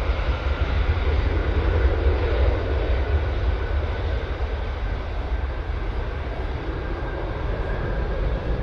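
Airliner engine noise: a steady deep rumble, loudest about two seconds in and then slowly fading.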